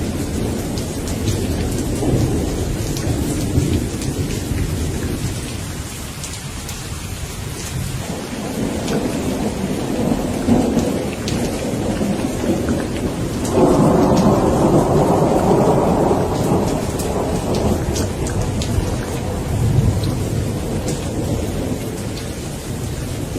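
Thunderstorm: steady rain with thunder rumbling continuously. A louder peal comes about two-thirds of the way in and rumbles for about three seconds before falling back.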